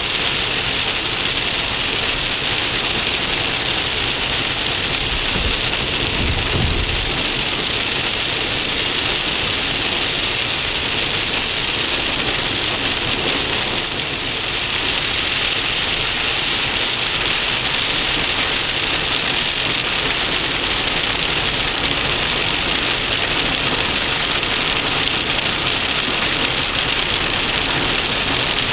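Steady hiss of heavy rain on a car, mixed with engine and road noise, with a short low rumble about six seconds in.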